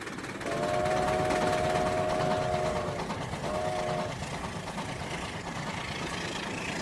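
A horn sounding a chord of several steady notes: one long blast of about two and a half seconds, then a short one, over a continuous noisy rumble.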